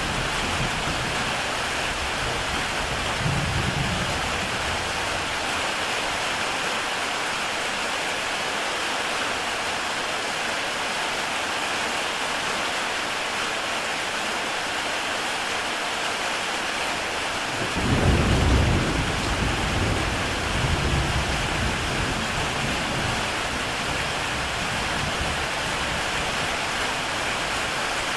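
Heavy rain falling steadily on a tile roof, an even hiss of drops. About eighteen seconds in a low roll of thunder sets in and rumbles on for a few seconds, with a fainter low rumble near the start.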